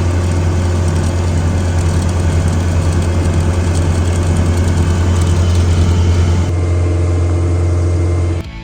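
An engine running steadily with a deep, even hum, changing slightly about six and a half seconds in and cutting off suddenly near the end.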